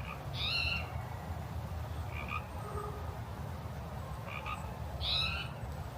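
Frogs croaking outdoors, a few separate calls with two louder ones about half a second in and near the end, over a steady low rumble.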